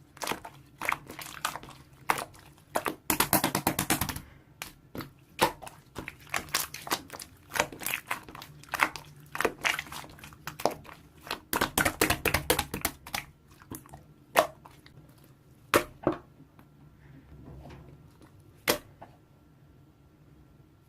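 Irregular sharp clicks and crinkling handling noises, with two fast, dense runs of clicks about three and twelve seconds in, then a few isolated clicks.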